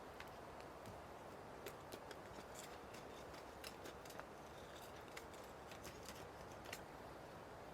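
Small wood fire crackling faintly, with irregular sharp pops and ticks over a steady low hiss.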